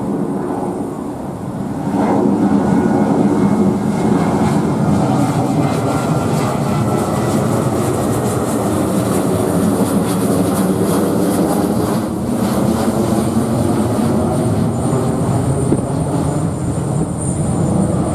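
Jet airliner engines running loudly and steadily as the aircraft passes, growing louder about two seconds in. A thin high whine joins near the end.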